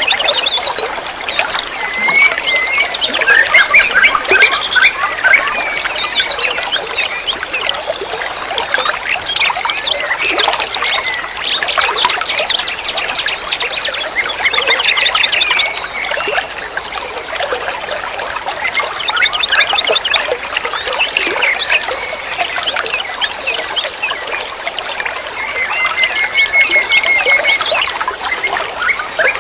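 A perched songbird singing ('ngoceh') in a continuous, fast stream of chirps, rattling trills and short whistles. Near the end it holds a steadier whistled phrase.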